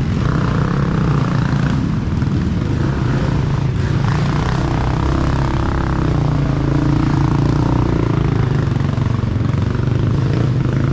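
Off-road racing dirt bike engines running, a steady loud engine sound throughout.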